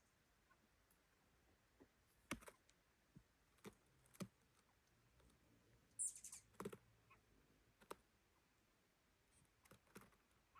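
Faint, scattered clicks and knocks of a dog nosing at its empty food bowl, with a brief scrape about six seconds in.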